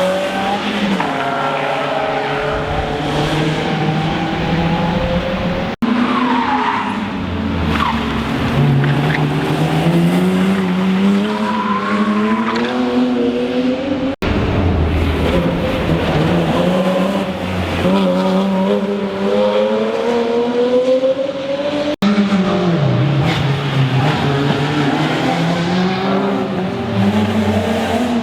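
Rally car engines accelerating hard, pitch climbing through the gears and dropping at shifts and braking, with tyre squeal from sliding on the stage. The sound breaks off abruptly three times, each time onto another run.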